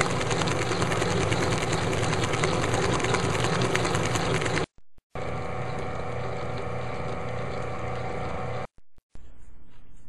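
Electric mixer motor running steadily, whirring as it beats, in stretches cut apart twice; the middle stretch has a steadier hum and is a little quieter, and after the second cut it is much quieter.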